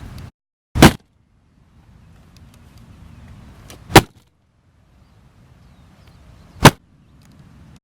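Three loud, short whooshing hits, about three seconds apart, with faint low noise between them.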